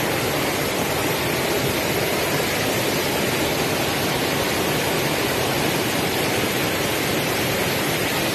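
Rushing creek water: a steady, unbroken rush of flowing water.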